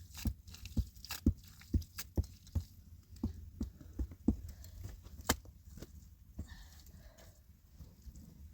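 A series of sharp knocks, about two a second, thinning out and growing fainter after about five seconds.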